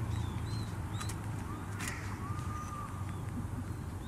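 Small birds chirping in short high calls, with one longer, steadier call near the middle, over a steady low background rumble. Two sharp clicks come about one and two seconds in.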